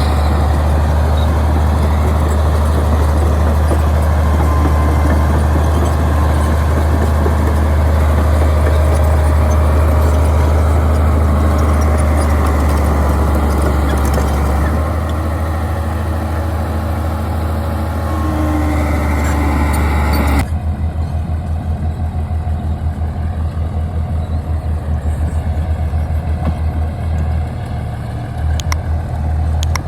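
Bulldozer's diesel engine running steadily with a deep drone. About two-thirds of the way through, the sound changes abruptly to a pulsing, throbbing engine note.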